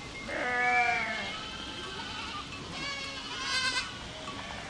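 Goats bleating: a loud, arching bleat about a second long near the start, then a higher-pitched, wavering bleat about three seconds in.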